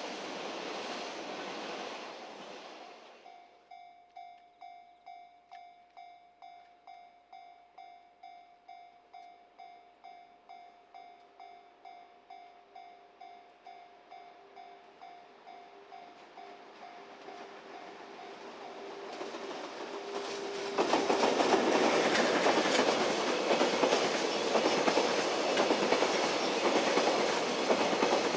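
A freight train's running noise fades away. A railway level-crossing bell then rings in even strikes about twice a second, with a second lower tone joining partway through. About twenty seconds in, the loud rumble of a freight train passing close by cuts in suddenly and covers the bell.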